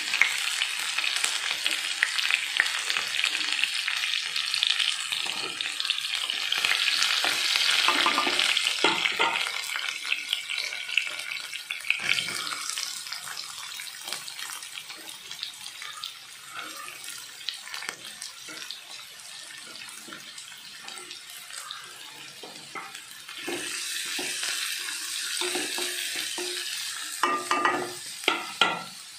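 Oil sizzling in a kadai as a tempering of dals and green chillies fries and is stirred. The sizzle is loud for the first ten seconds or so, falls quieter once chopped onion is in the pan, and swells again near the end, with a few sharp knocks.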